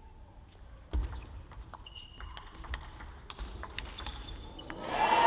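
Faint, scattered taps and clicks, with a dull thump about a second in and two short high squeaks.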